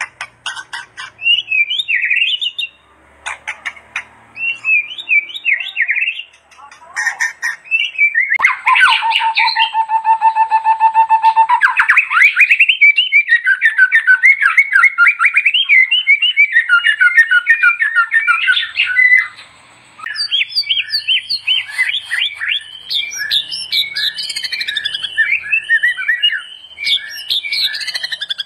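White-rumped shama (murai batu) singing a loud, varied song. About eight seconds in it holds a long steady whistled note, then runs into rapid repeated trills, pauses briefly, and goes into fast, dense chattering phrases.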